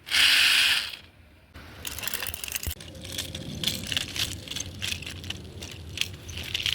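Small 1:32 diecast toy jeep with a pullback motor. It opens with a loud rushing burst lasting under a second, then after a short pause gives a long run of light, uneven clicks and rattles as the toy is pulled back and rolled.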